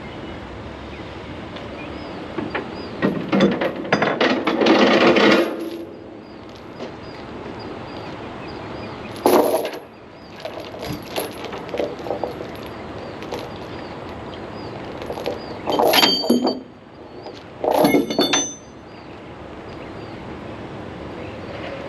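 Heavy metal clanking and clattering in four bouts, the two near the end with ringing metal strikes.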